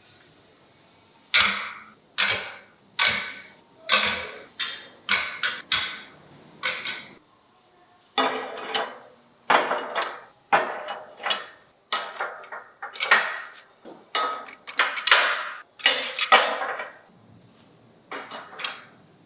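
A series of sharp metallic strikes, roughly one every half second to second, each ringing briefly before fading, like hammering on steel. They come in two long runs with a short pause about seven seconds in, then a couple more near the end.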